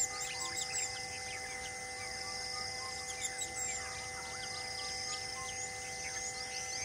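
Wild birds calling: quick runs of high chirps and short falling whistles, the busiest just after the start and again near the end. Beneath them run an insect buzz that comes and goes and a few steady held tones.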